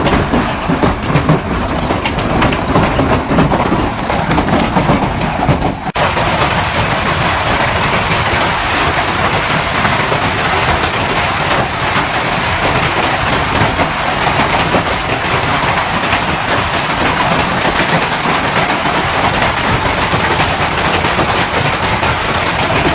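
Loud, steady storm noise of heavy rain, a dense rushing roar that changes abruptly about six seconds in.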